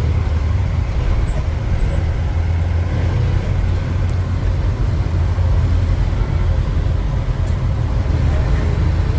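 A 1948 Ford F5 bus's engine running steadily while the bus is driven, a loud, even low drone.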